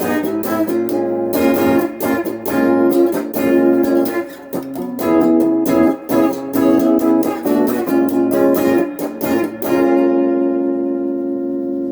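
GEARIT GI-155 electric guitar played through a Crate GX15R amp with a Golden Plexi overdrive pedal, the guitar's volume knob turned down to about 6.5. It plays a quick run of picked notes and chords, then a last chord is left ringing out for about the final two seconds.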